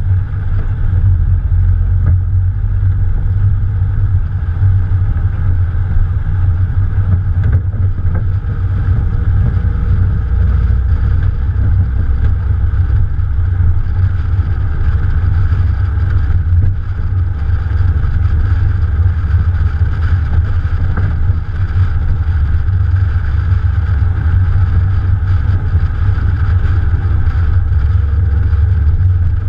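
Morgan Plus 4 sports car with its Ford 2.0-litre engine, driving at a steady pace, heard from the bonnet. There is a loud, even low rumble of engine, road and wind, with no gear changes or revving that stand out.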